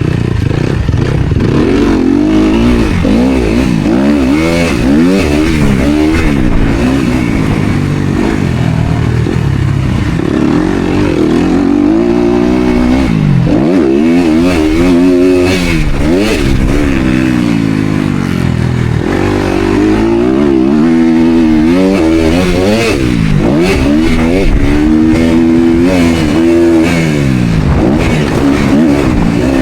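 Motocross bike engine revving hard while racing, its pitch climbing and dropping over and over as the rider accelerates, shifts and backs off for corners, with some clatter from the bike.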